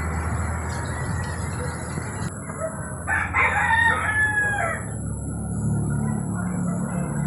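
A rooster crowing once, one call of about a second and a half with a bending pitch, over a steady low background noise.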